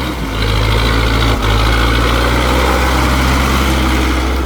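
Tractor engine running steadily and loudly, getting louder about half a second in, with one brief knock partway through.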